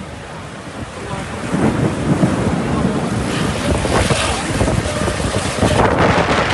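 Strong gusting wind from a wind storm buffeting the microphone, growing louder about a second and a half in.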